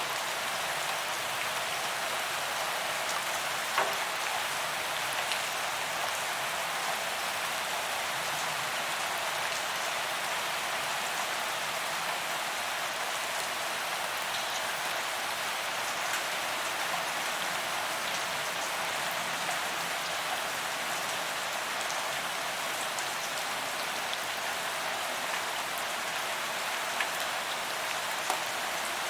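Steady rain falling on a paved sidewalk, an even hiss with scattered sharper drop ticks, the loudest about four seconds in and two more near the end.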